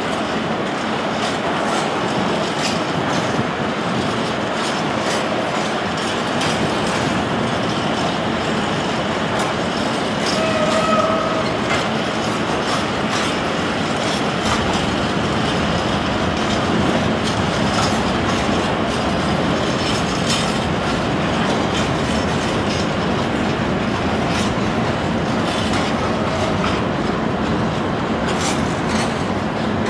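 PKP ET22 electric locomotive and its train rolling slowly through a station, steady rail noise with wheels clicking over rail joints. A short squeal comes about ten seconds in. Open freight wagons also roll along a neighbouring track.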